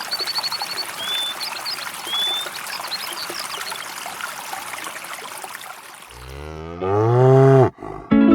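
Birds chirping over a steady hiss, then a cow gives one long, loud moo about six seconds in.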